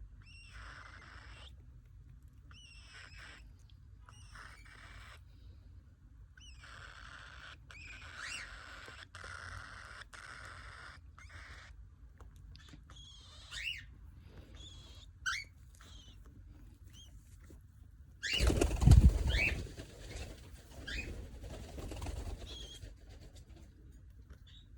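Baby cockatiel calling in repeated raspy bursts, then giving short rising chirps. A loud rustling burst comes about eighteen seconds in, then more calls.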